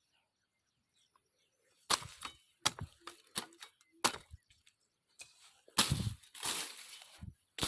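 Chopping blows on wood, a few sharp strikes at uneven intervals starting about two seconds in, followed by longer crackling and rustling of cut branches.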